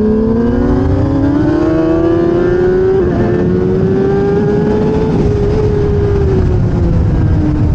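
1000cc race motorcycle engine heard onboard, rising steadily in pitch under acceleration over the first few seconds, holding high, then falling away slowly from about five seconds in as the rider eases off.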